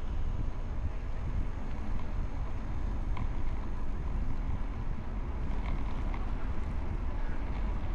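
Wind buffeting the microphone of a camera on a moving bicycle: a steady low rumbling noise.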